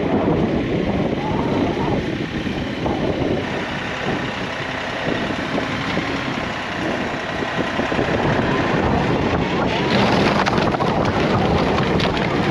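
Tractor engine running steadily, growing louder about ten seconds in.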